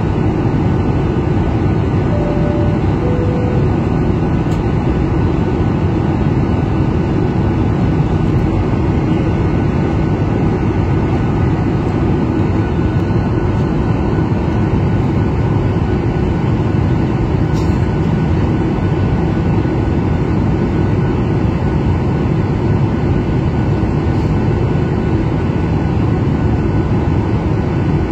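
Steady airliner cabin noise, with a two-note falling chime about two seconds in.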